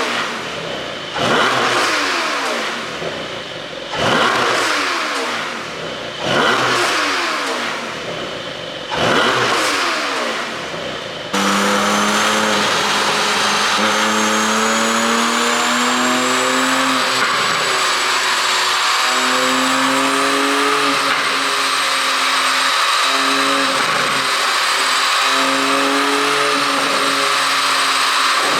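Porsche 718 Boxster GTS 4.0's flat-six, on an ECU tuned for exhaust pops, revved in sharp blips about every two and a half seconds, each rev falling back down. About eleven seconds in the sound cuts abruptly to a steady engine drone whose pitch shifts up and down in steps.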